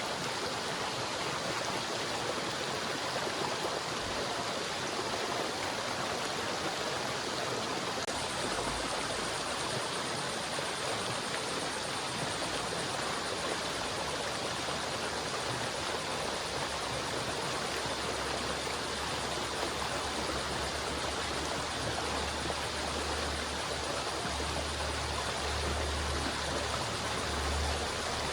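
River water flowing steadily over rocks, a continuous rushing and burbling, with a low rumble that comes in under it and grows stronger in the second half.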